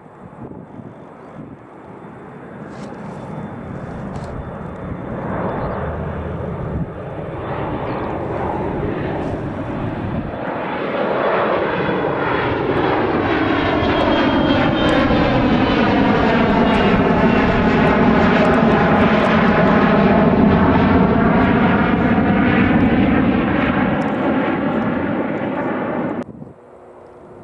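Jet aircraft engines passing close by, growing steadily louder over about fifteen seconds, with a sweeping, phasing whoosh as the plane goes past. The sound cuts off abruptly near the end.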